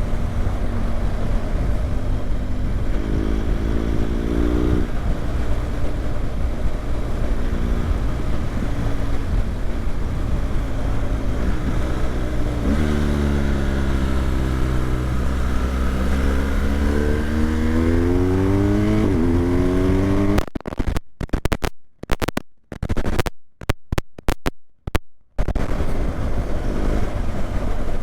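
BMW GS motorcycle engine running under way with rumble, its pitch rising as it accelerates briefly a few seconds in and again in a long pull midway. Near the end the sound cuts out completely several times for a few seconds.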